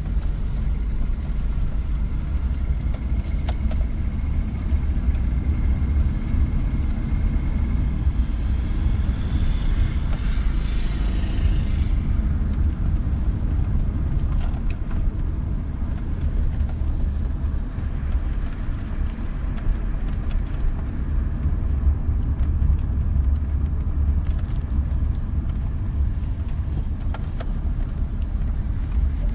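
1988 Volvo 240 GL engine running steadily with a knocking noise that the owner takes for piston slap, most likely. A brief hiss swells about eight seconds in and cuts off near twelve seconds.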